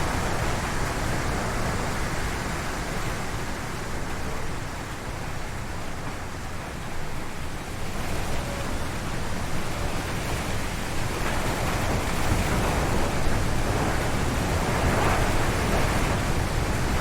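Strong wind gusting through forest trees, a steady rushing noise. It eases briefly about a third of the way in, then builds again into stronger gusts.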